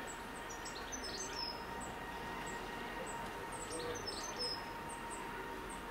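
Small birds chirping in quick high-pitched runs, several times over, above a faint steady background hiss with a thin steady tone.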